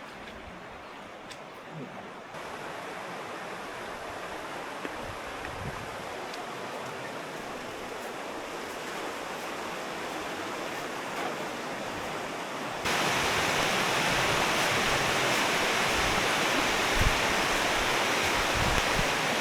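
Steady rush of fast-flowing river water, with no distinct events. It gets louder about two seconds in and again, abruptly, about thirteen seconds in.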